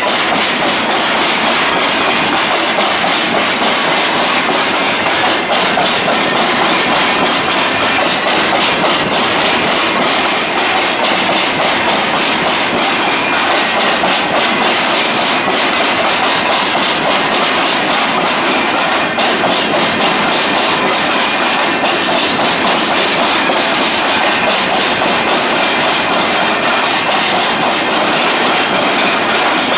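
A train running over the rails: a steady clatter of wheels on the track.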